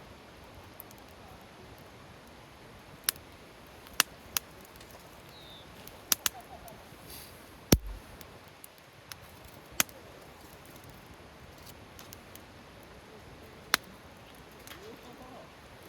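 Wood campfire crackling: scattered sharp pops of burning wood, about nine of them at irregular intervals, the strongest a little before the middle, over a steady soft hiss.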